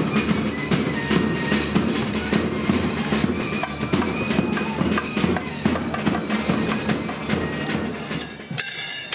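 Temple festival music: dense drumming with sharp metallic strikes, and a high held melody line gliding above. It falls away shortly before the end.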